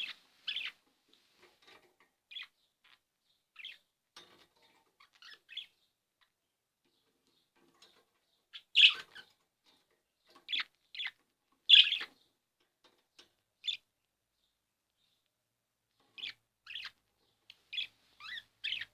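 Budgerigar giving short, sharp chirps at irregular intervals, the loudest about nine and twelve seconds in: the excited calling of a budgie in breeding condition.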